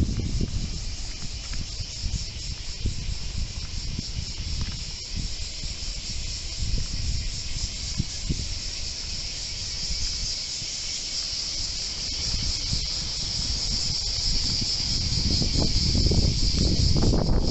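Typhoon wind gusting and buffeting the microphone in low rumbles, which ease for a while and then build strongly near the end, over a steady high-pitched hiss.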